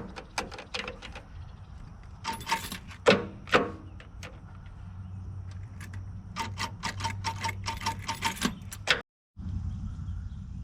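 Runs of sharp metallic clicks, quickest near the end at about five a second, over a low steady hum. The sound cuts out briefly near the end.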